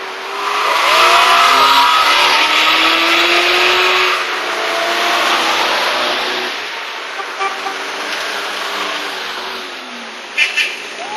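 A classic car driving past up the hill, its engine and road noise swelling about a second in and easing away after about six seconds.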